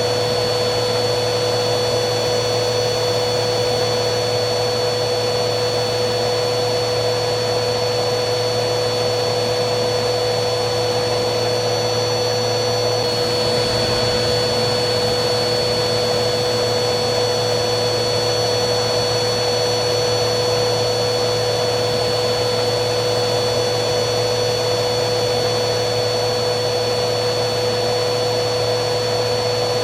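Vacuum cleaner running steadily: a constant high whine over a rush of air through the motor, with no change in speed.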